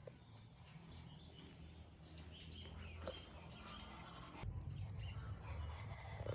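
Faint birdsong: several short chirps and calls, over a low steady rumble that grows louder after a click about four and a half seconds in.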